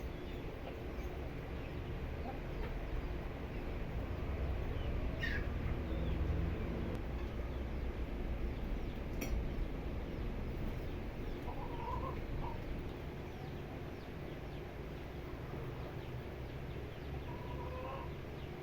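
Young chickens clucking, with a few short calls, one of them falling in pitch, over a steady low rumble.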